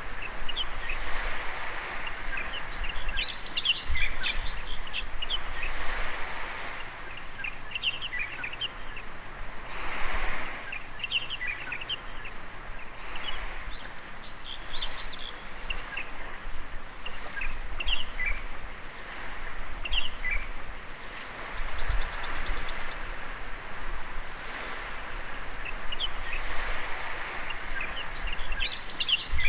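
Small waves washing onto a beach, a hiss that swells and eases every few seconds, with birds chirping throughout and a quick trill of chirps about two-thirds of the way through.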